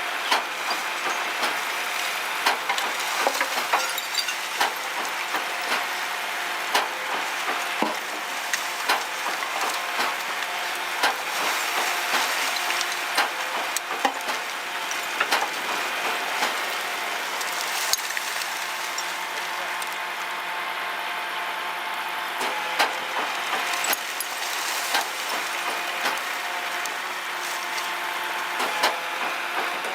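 Walking-floor trailer running under hydraulic drive with the truck engine held steady: a constant mechanical hum, with frequent irregular clicks and knocks throughout as the load is worked out.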